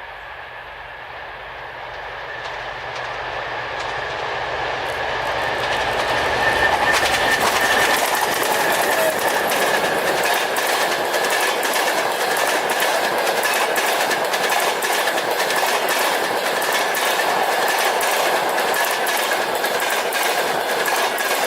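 A 2M62 diesel locomotive with a passenger train approaching and passing: the low rumble of its diesel engines grows louder over the first seven seconds, then the carriages roll by with rapid clickety-clack of wheels over rail joints and a steady high whine.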